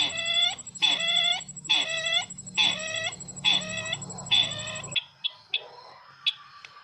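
Sisintar ladang bird calling, a pitched, clucking note repeated a little under once a second, each note rising then falling in pitch. The calls stop abruptly about five seconds in, leaving a few short faint notes and a single sharp click.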